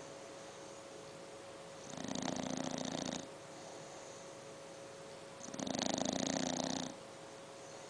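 English bulldog puppy snoring in its sleep: two loud fluttering snores, each a little over a second long and about three and a half seconds apart, with quieter breathing between them.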